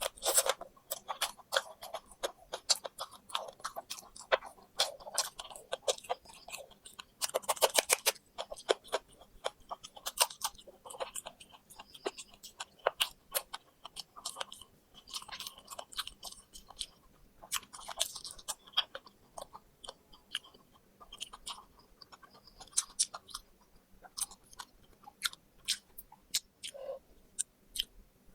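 Close-up chewing and crunching of crispy fried poultry, a steady run of irregular crisp crunches, densest about eight seconds in.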